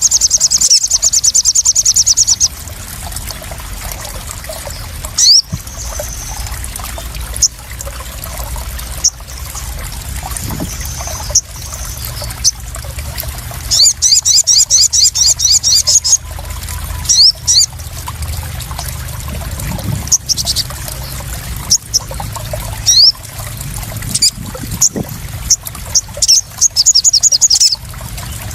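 Sogon (crimson sunbird) calling: three rapid chattering trills of high notes, one at the start, one about halfway and one near the end, with single sharp chips between them. Steady trickling and splashing water runs underneath.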